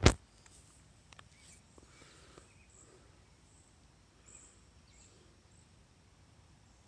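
Quiet natural outdoor background with faint, scattered bird chirps and calls. A single sharp knock sounds right at the start, much louder than anything else.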